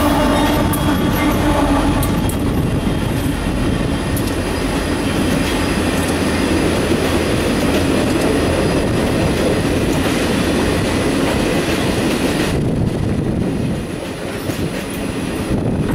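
A Union Pacific SD70M diesel locomotive passing close by, its engine heard in the first couple of seconds. A long string of passenger cars follows, rolling past with steady wheel-on-rail noise, and the rolling noise eases a little near the end.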